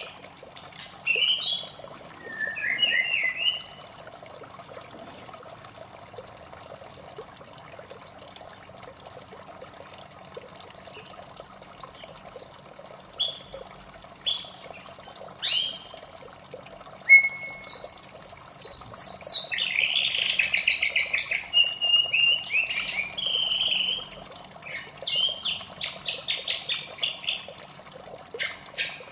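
White-rumped shama singing short, varied whistled phrases, with a pause of several seconds before a longer run of song near the end, over a steady sound of running water.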